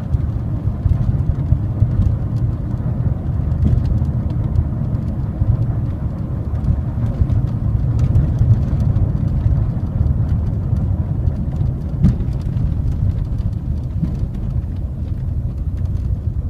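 Steady road and drivetrain rumble inside the cabin of a moving 2017 Mazda 3, with occasional faint short creaks from the interior trim: the cabin squeak that appeared after about 1000 km.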